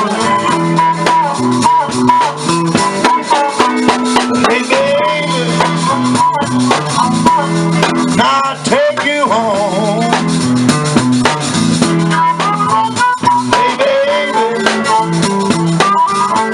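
Live blues played on guitar over a steady beat, with a lead line bending up and down on top.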